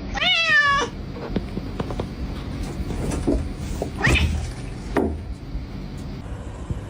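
A cat meows once, a loud wavering call, followed by scattered clicks and knocks. Two shorter calls come about four and five seconds in.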